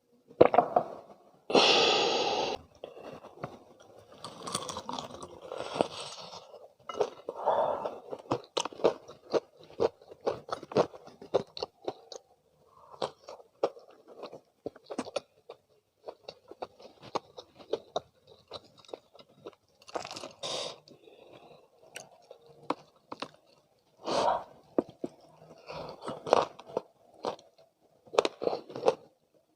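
Bites and chewing of crispy fried chicken, with crunching and dense small crackles from the coating. There is a loud crunchy bite about two seconds in.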